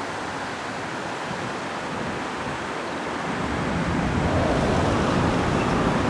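Hokuso 9000-series electric commuter train approaching. From about halfway its rumble grows louder, with a low steady hum, out of a steady rushing background noise.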